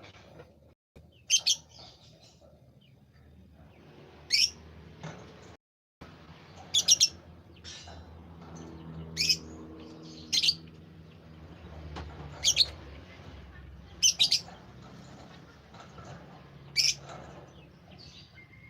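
A songbird gives loud, short, high chirps, about eight calls in all. Some are single and some come in quick twos or threes, one every two seconds or so.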